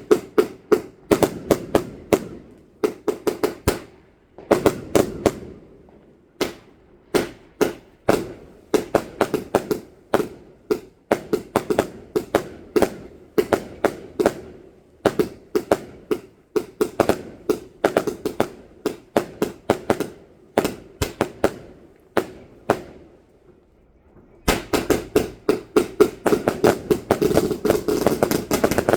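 Fireworks going off: a long run of sharp cracks and bangs in uneven clusters, turning into a dense, rapid crackling near the end.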